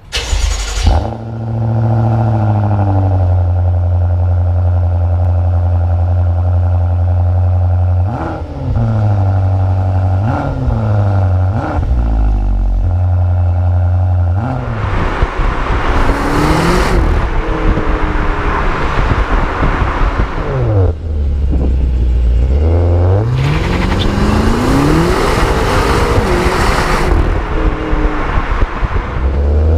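BMW M6 with an Innotech Performance aftermarket exhaust: the engine flares loudly and then idles steadily. It takes three quick throttle blips, then is revved high twice for several seconds at a time, dropping back to idle in between.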